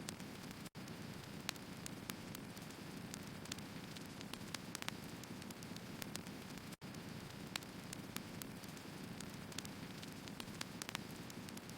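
Burning firewood crackling: sharp, irregular crackles over a steady low rushing hiss of the fire. The sound cuts out for an instant twice.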